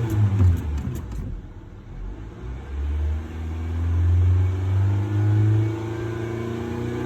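A 2020 Honda Civic's engine being revved: the revs fall away about a second in, then climb again and are held at a steady high rev. A few faint clicks near the start.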